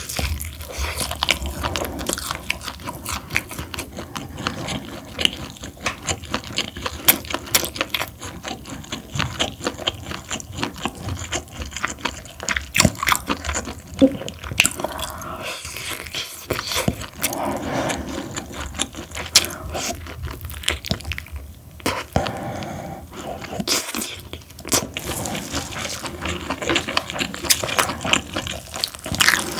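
A person chewing and biting food close to the microphone: a continuous run of wet clicks, smacks and crunches.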